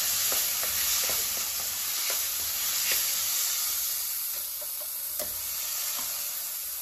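Chopped tomatoes frying with onion and spice masala in oil in a pan, sizzling steadily while a spoon stirs through them with light scraping clicks. The sizzle eases slightly in the second half.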